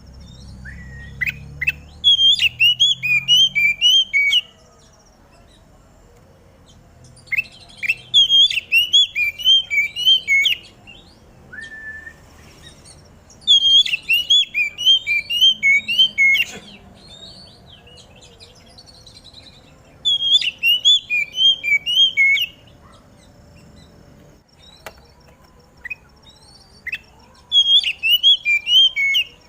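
Oriental magpie-robin (kacer) singing: five loud phrases of rapid, repeated whistled notes, each lasting two to three seconds, with pauses of a few seconds between them.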